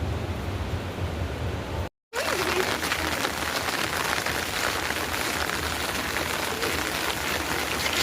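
Heavy rain falling, a dense steady hiss of drops. The sound cuts out for a moment about two seconds in and returns brighter and fuller.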